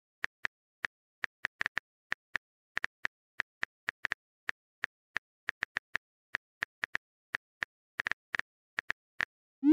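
Phone on-screen keyboard click sound effect: short identical taps at an irregular typing pace, about three or four a second. Just before the end comes a quick rising swoop, the loudest sound, like a message-sent effect.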